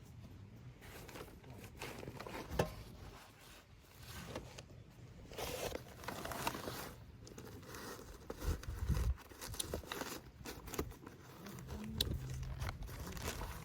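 Gear being handled: irregular rustling and crinkling with scattered clicks and knocks, one sharp click about two and a half seconds in.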